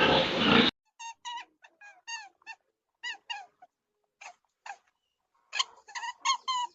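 A loud noisy sound cuts off abruptly in the first second. Then an animal gives a series of short, squeaky chirps that bend down in pitch, scattered at first and coming in a quick run near the end.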